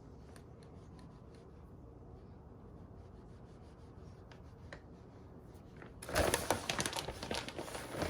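Light handling noise with scattered small clicks, then about six seconds in a loud crinkling rustle that lasts about two seconds.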